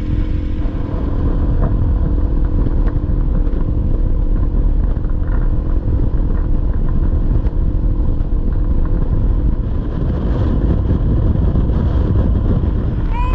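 Honda CRF300L single-cylinder engine running steadily under way, with a heavy low rumble underneath.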